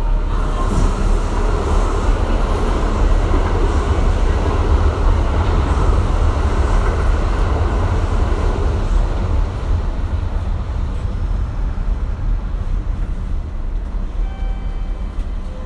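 Kintetsu 1420 series electric train with Mitsubishi GTO-VVVF traction running at speed, heard inside the car: a loud, steady rumble of wheels and running gear. A few steady tones come in near the end.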